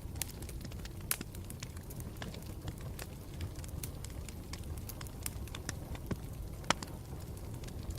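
Campfire burning, with a steady low rumble of flame and irregular sharp crackles and pops from the burning wood; a loud pop about a second in and the loudest one near the end.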